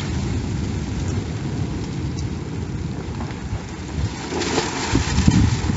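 Storm of wind and rain: a steady rushing noise with low rumbling gusts, swelling stronger about four and a half seconds in.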